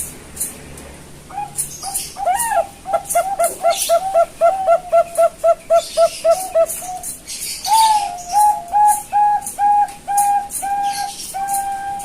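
Young Bangkok-line zebra dove (perkutut) cooing its song: a quick run of short, bubbling coos, about three to four a second, then a slower series of longer, level coos in the second half. Short high-pitched ticks sound in the background throughout.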